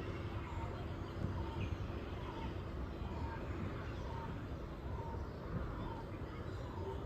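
A bird repeating one short call note, about once a second in an even rhythm, over a steady low rumble of distant traffic.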